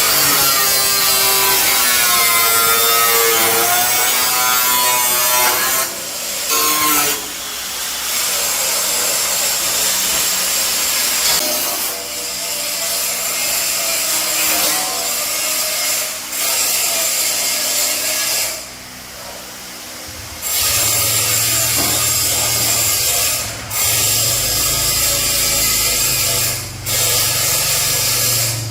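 A power tool working metal in a run of passes, with short breaks between them. A low steady hum joins it about two-thirds of the way through.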